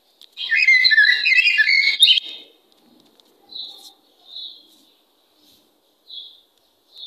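A small bird chirping: a burst of rapid, warbling twitter for about two seconds, then four short single chirps spaced out.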